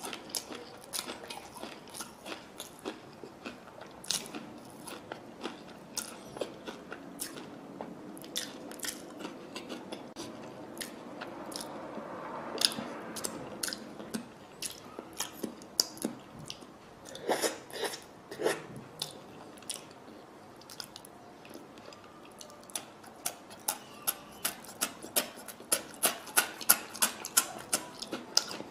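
Close-miked wet chewing and lip smacks of a man eating rice and fish with his fingers, with many irregular sharp smacks and clicks. A louder pair comes about two-thirds of the way through, and the smacks grow denser and louder near the end.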